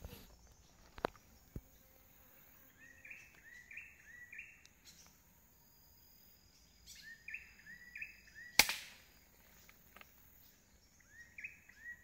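A bird calling a phrase of three or four short rising whistled notes, repeated three times, over a faint steady high whine. About eight and a half seconds in comes a single sharp crack of a rifle shot, the loudest sound.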